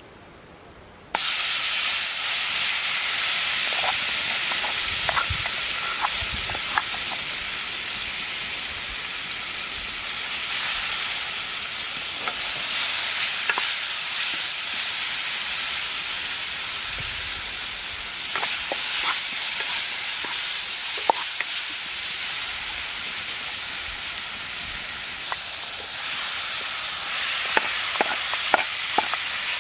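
Food frying in hot oil, a steady sizzle with scattered pops and crackles, starting abruptly about a second in.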